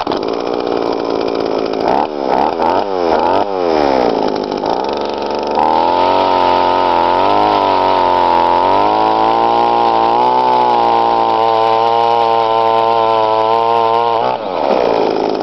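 Gas-powered Tanaka ice auger with freshly sharpened Mora blades, drilling a hole through ice: the small engine revs up and down a few times, then runs at steady high revs while the auger cuts, and the revs drop near the end. With the blades sharp, it cuts smoothly instead of jumping around.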